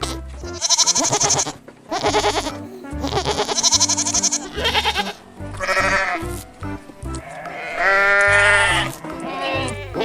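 Sheep or goat-type bleating: a run of about six quavering bleats, the longest and steadiest about eight seconds in, over background music.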